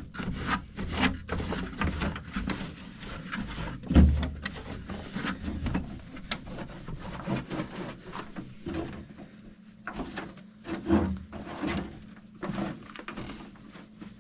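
A towel rubbing and wiping the plastic of a GE dehumidifier's reservoir area, with scattered handling clicks and knocks, the loudest a thump about four seconds in.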